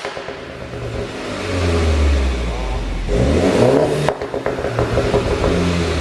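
BMW 530i's turbocharged four-cylinder engine revved up twice, the second rev followed by a string of sharp exhaust pops and crackles on lift-off, from an engine tune set up to pop on overrun.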